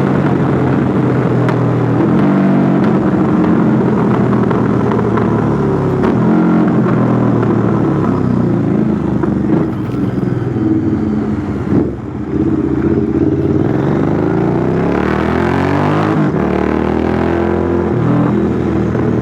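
Royal Enfield Interceptor 650's parallel-twin engine running through a custom two-into-one exhaust while riding. The engine note rises and falls with the throttle, dips about twelve seconds in, then climbs in pitch as the bike accelerates.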